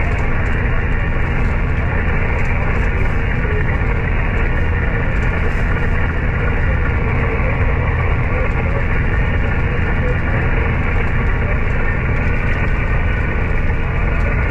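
Steady hiss and rumble of static from a radio receiver on an open HF amateur band with no station transmitting, narrowed to about 3 kHz by the single-sideband receiver's filter.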